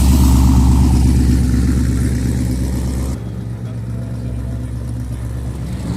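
A car engine idling loudly with a deep, steady note. It drops away suddenly about three seconds in, leaving a quieter engine sound.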